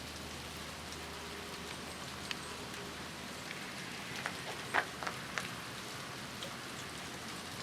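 Steady soft hiss of heavy, wet snow coming down, with scattered light ticks as large flakes land, most of them in the second half.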